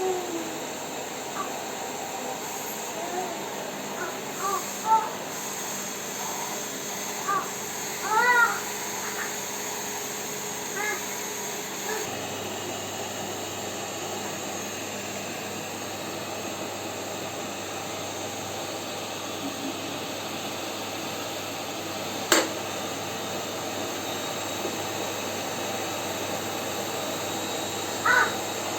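Electric vacuum cleaner running steadily. Short high squeaks come now and then in the first ten seconds and again near the end, and there is a single sharp click about two-thirds of the way through.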